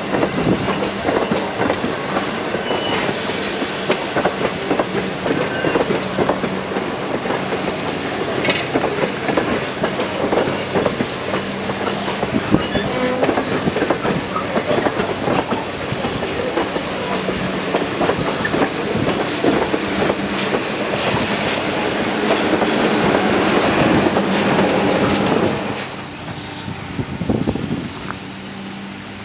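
Passenger coaches of a heritage steam railroad rolling past close by, steel wheels clattering over the rail joints in a dense, irregular clickety-clack. About 26 s in the clatter cuts off abruptly to a much quieter background.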